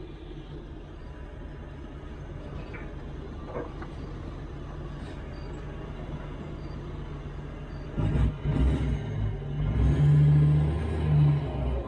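A heavy diesel engine running low and steady, then revving up and working under load in uneven surges from about eight seconds in.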